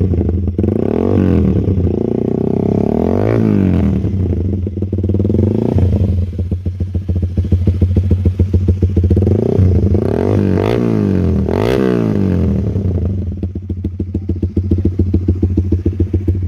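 Honda CBR150R's single-cylinder engine running through an aftermarket SC Project-style exhaust, a steady idle blipped several times into brief rising and falling revs.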